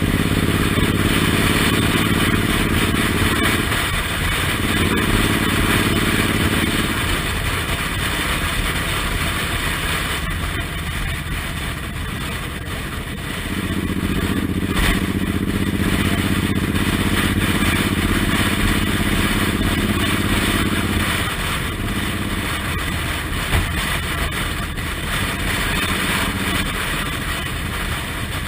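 Suzuki Intruder R1800's big V-twin engine running on the road, heard from the pillion seat with steady wind rush over the microphone. The engine note holds steady for stretches and eases off between them.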